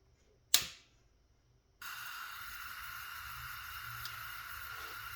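A single sharp click from the igniter of a 30,000 BTU tank-top propane heater. A little over a second later a steady hiss starts suddenly as propane flows and the burner head lights and burns.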